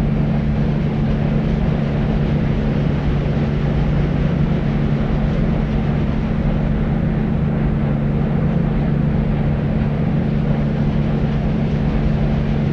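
Deep white noise: a steady, unchanging rumbling hiss weighted heavily toward the bass, with a constant low hum running through it.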